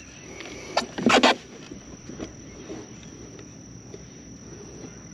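Steady high-pitched drone of insects, with a couple of sharp clicks and one short, loud burst of noise about a second in.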